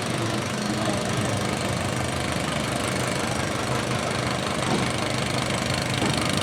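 Small garden tractor engine running steadily.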